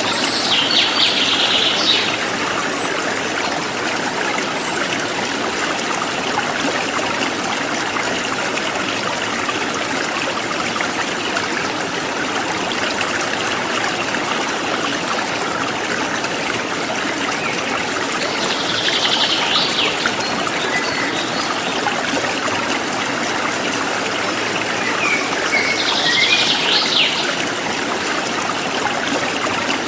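Forest stream flowing and trickling steadily. A bird gives a short chirping trill three times: about a second in, around the middle, and again a little later.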